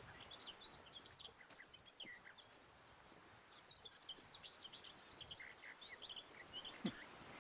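Faint birdsong: small birds chirping in many short high notes over a quiet background hiss, with one brief louder sound near the end.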